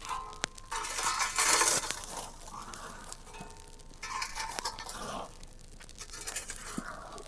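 Handling noise of small objects: light clinks with brief ringing and rustling or scraping, loudest as a hissing rustle about one and a half seconds in.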